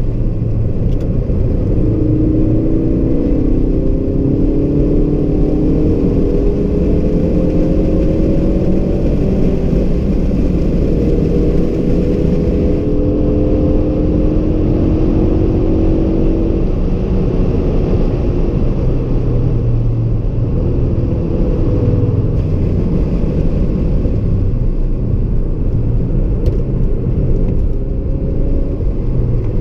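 Ford Focus RS mk3's 2.3-litre turbocharged four-cylinder engine heard from inside the cabin, pulling hard with its note climbing in pitch several times as the car accelerates, over a constant low road rumble.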